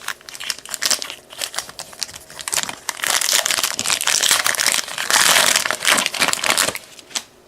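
A basketball trading card pack wrapper being torn open and crinkled by hand: crackling rustles that grow heaviest in the middle, then stop shortly before the end.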